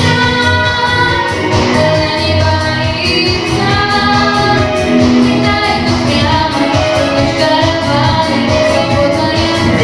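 A girl singing a pop song over a backing track with a steady beat.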